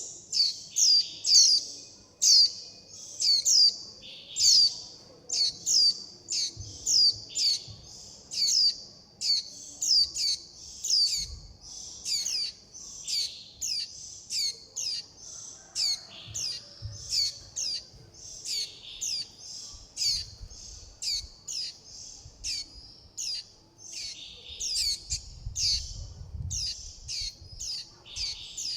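Juvenile white-eye calling over and over, short high chirps that sweep downward, about two a second: the begging calls of a fledgling calling for its parent and flock, asking to be fed.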